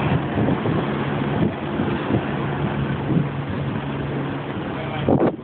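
An engine runs with a steady low hum under a loud wash of noise.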